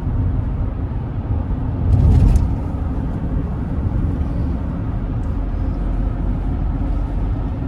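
Steady road and engine noise heard from inside a car moving along a highway, a low rumble with tyre hiss, with a brief louder surge of noise about two seconds in.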